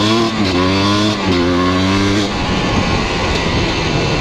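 1997 KTM dirt bike engine under acceleration. It revs up, its pitch dropping sharply twice as it shifts up, then eases off about two seconds in and the note goes rough and uneven as the bike rolls off the throttle.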